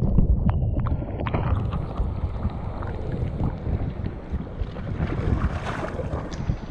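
Strong wind buffeting the microphone, a loud uneven low rumble, over a steady rush of seawater around a small sailing dinghy.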